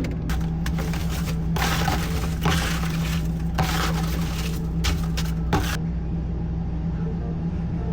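Irregular scrubbing and scraping noises of cleaning, coming in short bursts over a steady low machine hum, stopping a little before the end.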